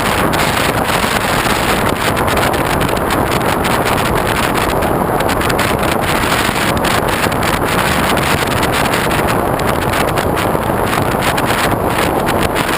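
Steady, loud wind rush on a GoPro's microphone, mounted on the wing of a foam RC airplane in flight.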